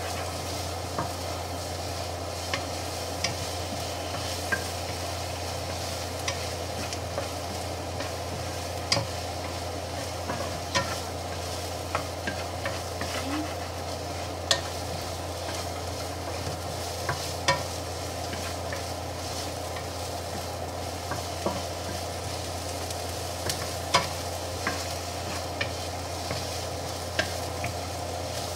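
Sliced onions sizzling as they sauté in a nonstick pan, stirred with a wooden spatula that gives irregular sharp taps and scrapes against the pan. A steady low hum runs underneath.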